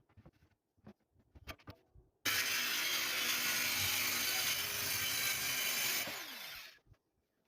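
A few light knocks and clicks, then an electric power tool runs steadily for about four seconds. It is switched off and its motor winds down with falling pitch.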